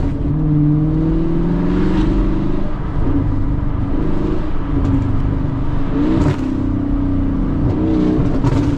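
Car engine running under throttle while driving, its pitch stepping up and down a few times as the revs change.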